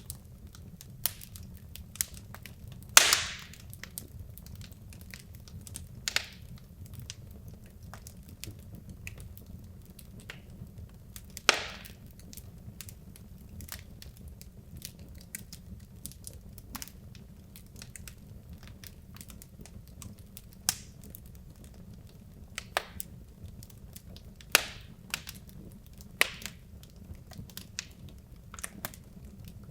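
Wood logs burning in a fireplace, crackling with frequent small snaps and a few louder pops, over a steady low hum.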